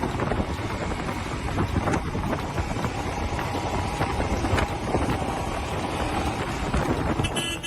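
Wind buffeting the microphone over the running engine of a Royal Enfield Himalayan motorcycle under way.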